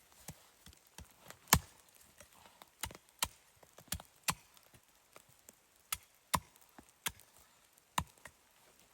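A series of sharp, irregular knocks, about a dozen in all, the loudest about one and a half seconds in.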